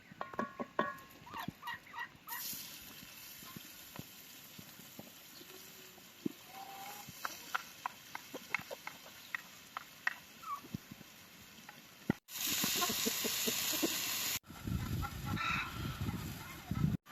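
Chickens clucking, mixed with scattered short knocks and clicks. About two-thirds of the way in, a loud steady hiss takes over for about two seconds.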